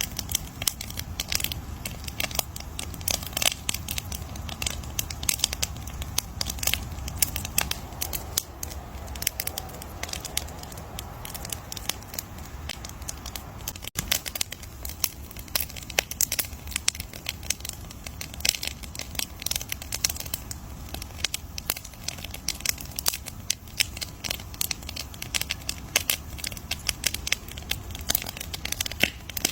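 Campfire crackling, with dense, irregular snaps and pops over a steady low rumble.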